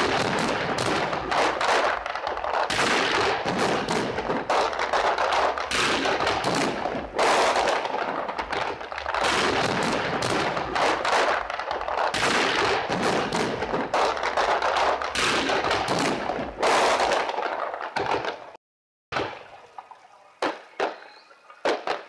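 Fireworks display: a dense, unbroken barrage of rapid bangs and crackling. About three-quarters of the way through it cuts off suddenly, leaving only a few scattered pops.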